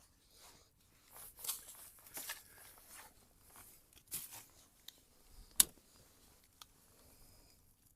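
Dry twigs and kindling being broken and handled, crunching and rustling, with one sharp snap about five and a half seconds in.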